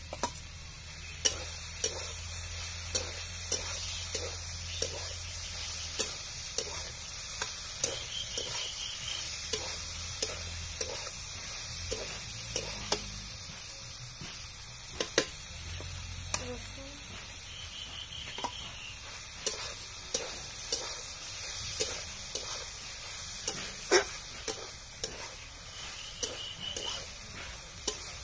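Pieces of goat liver and meat sizzling as they fry in an iron kadai, stirred with a metal spatula that scrapes and clicks against the pan again and again, with a few louder knocks.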